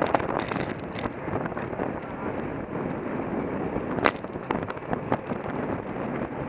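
Wind rushing over a bicycle-mounted camera's microphone while riding in a race, with the bike rattling over the road and a sharp knock about four seconds in.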